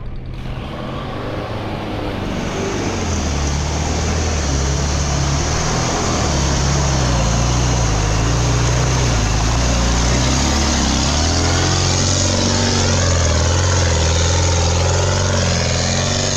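Heavy off-road race truck's engine working hard under load, growing louder over the first few seconds and shifting in pitch. A steady hiss sits over it from about two seconds in.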